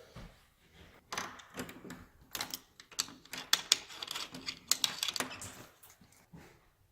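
A quick, irregular run of light clicks and knocks, starting about a second in and dying away near the end.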